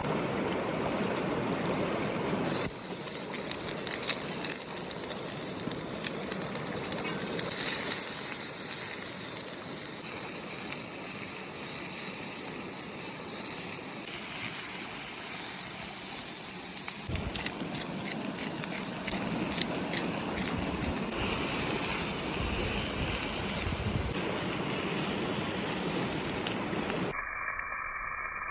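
Steady rushing of river water with a bright, high hiss over it. The sound changes abruptly near the end.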